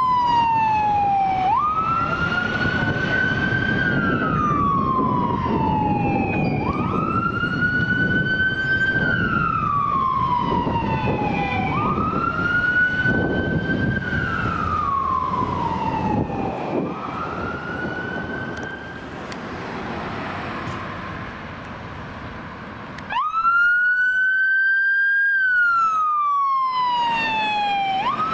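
Fire engine siren wailing, each cycle about five seconds long: a quick climb in pitch, then a slow fall. About two-thirds of the way through it fades under vehicle noise, then after a sudden break it comes back loud, still wailing.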